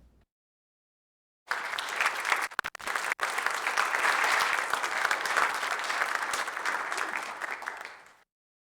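Congregation applauding, starting about a second and a half in and cut off abruptly near the end.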